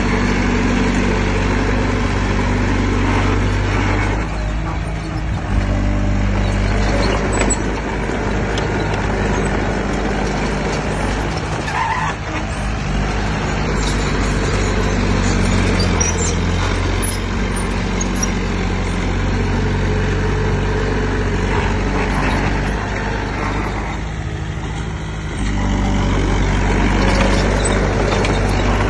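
Heavy-equipment diesel engine running under load, its pitch dropping and rising several times as the throttle and load change.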